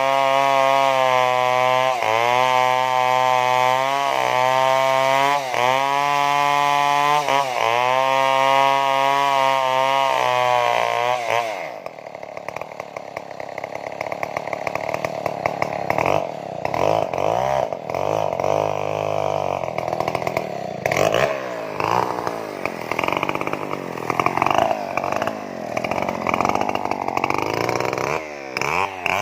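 Stihl two-stroke chainsaw running hard, its pitch dipping again and again as the chain is loaded in the cut. About twelve seconds in it drops suddenly to a quieter, uneven, wavering sound, then comes back up loud at the very end.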